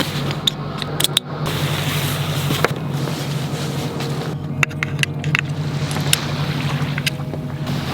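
A steady low mechanical hum, with scattered sharp clicks and clinks of sailboat deck hardware as a spinnaker is being rigged.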